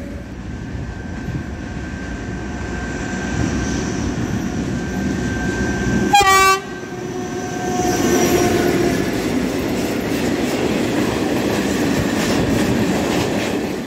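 A diesel locomotive hauling a freight train of open wagons approaches and gives one short horn blast about six seconds in. Its wagons then roll past close by with loud wheel noise.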